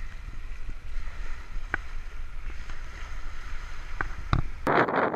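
Strong wind buffeting the microphone: a low rumble with a steady hiss and a few sharp knocks, turning suddenly into a much louder rushing noise near the end.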